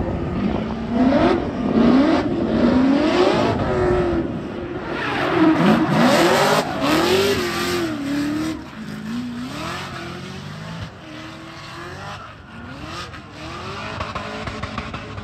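Car engine revving hard, its pitch climbing and dropping over and over, with tyre noise. Loudest in the first half, then fading.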